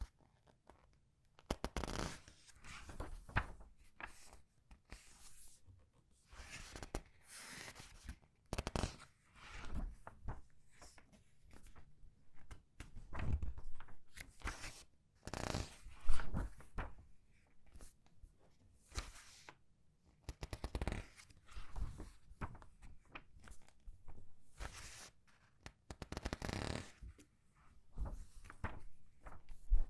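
Comic book pages being turned one after another and squeezed in the hand: irregular paper rustling and crinkling with short pauses between turns, the sharpest crackle about sixteen seconds in.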